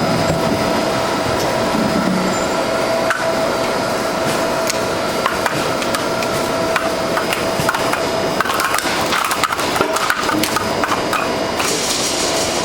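WP-140 hydraulic firewood splitter working: wood cracking and splintering with frequent knocks and clatter of logs over a steady machine whine, and a brief hiss near the end.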